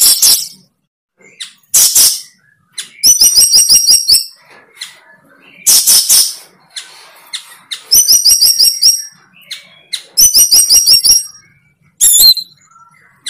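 A bird calling. Short single calls alternate with three trills of rapid repeated high notes, about eight a second, each trill lasting about a second.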